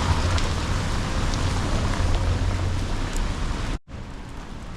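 Steady rain with a low rumble underneath. The sound cuts off abruptly near the end and resumes quieter.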